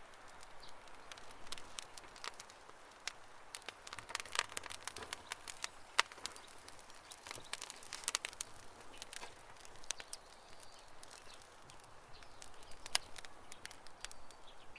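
Campfire crackling: small pops and snaps come irregularly over a low hiss. A couple of sharper pops stand out, one about six seconds in and one near the end.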